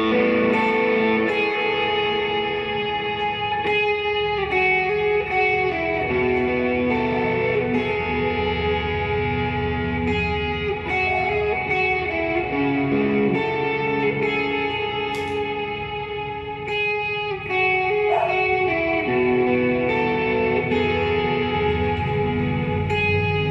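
Electric guitar played through an effects pedalboard, long ringing chords that change every few seconds in a slow ambient worship progression.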